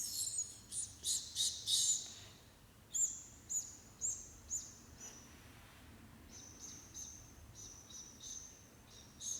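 Small bird chirping in short, high calls: a quick cluster at the start, then four evenly spaced chirps about half a second apart, then fainter calls toward the end.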